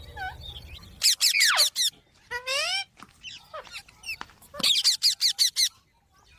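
Rose-ringed parakeets screeching: a burst of rapid, harsh, high calls about a second in, a wavering call after it, and a second burst of quick repeated calls near five seconds.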